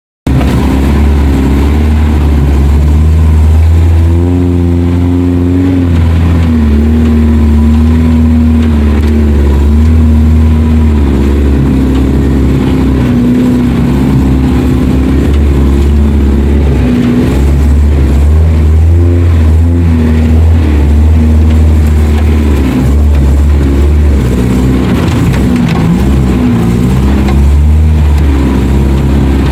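Suzuki off-road 4x4's engine working under load, with a strong low rumble and its pitch rising and falling as it revs up and down.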